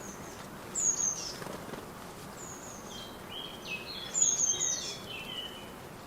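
Garden birds chirping: a short, high, falling call about a second in, then a busier run of chirps from about three to five seconds, over steady outdoor background noise.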